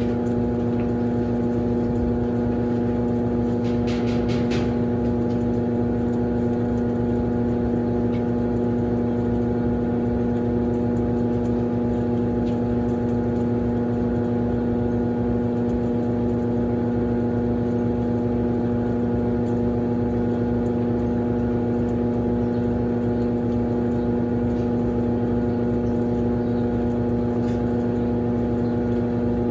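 Consul Facilite 11.5 kg top-loading washing machine draining, its drain pump humming steadily, quiet for a Consul. A brief rattle about four seconds in.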